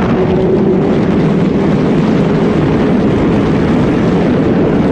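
Sport motorcycle's engine running steadily at speed, under a dense rush of road and wind noise.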